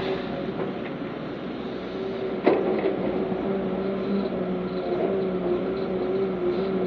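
Heavy diesel earthmoving machinery running steadily with a droning hum, with one sharp clank about two and a half seconds in and a few lighter knocks.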